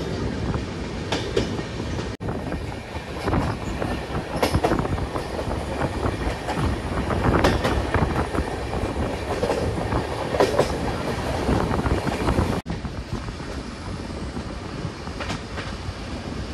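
Passenger train running, heard from an open coach door: steady rail rumble with the wheels clattering over the rail joints. The sound cuts out abruptly for a moment twice, about two seconds in and again about twelve seconds in.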